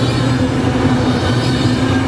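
Norfolk Southern freight train rolling past, a loud, steady rumble of wheels on rail.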